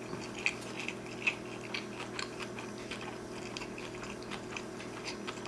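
Chewing sushi rolls close to the microphone: irregular soft, wet mouth clicks, two of them louder in the first second and a half.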